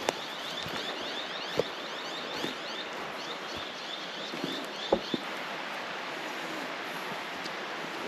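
A bird calls in a quick run of short, high, falling chirps, about three a second, that stops a little before halfway through. Behind it is a steady rustling background, with a few scattered footsteps.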